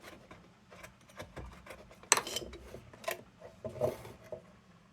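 Bamboo chopstick scraping and tapping at paint-stripper residue inside a cold-blast lantern's metal air passages: irregular clicks and scrapes, the loudest a short scrape about two seconds in.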